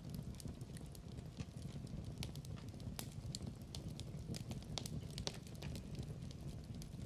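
Wood fire in a fireplace crackling: a steady low rumble of the flames with irregular sharp pops and snaps.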